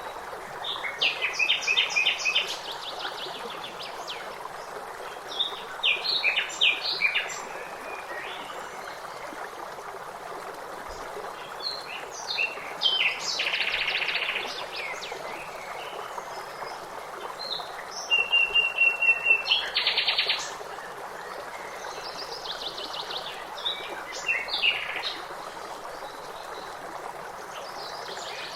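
Songbirds singing in short bursts of trills and chirps every few seconds over a steady rush of flowing water, such as a stream.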